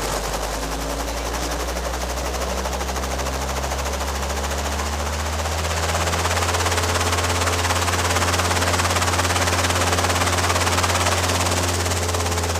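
Robinson R22 helicopter's piston engine and rotor running, a steady rapid beat, growing slightly louder about six seconds in.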